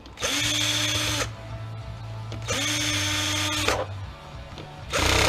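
Cordless power drill/driver backing out screws from a plastic case: two runs of about a second each, the motor quickly winding up and then holding a steady pitch, then a shorter burst near the end.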